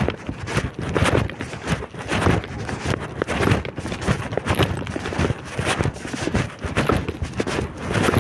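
Strong wind buffeting the microphone, with irregular knocks of footsteps as someone walks against it.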